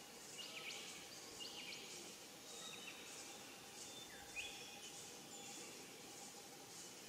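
Faint forest birdsong: a few short whistled notes, some sweeping quickly up or down in pitch, over a soft high chirping repeated about twice a second.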